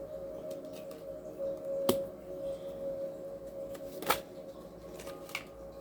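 Tarot cards being handled and laid down, with a few soft ticks and two sharp snaps about two and four seconds in, over a steady low drone of background music.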